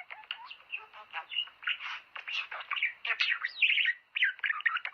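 Budgerigars warbling and chattering: a fast, unbroken run of short chirps, trills and scratchy squawks.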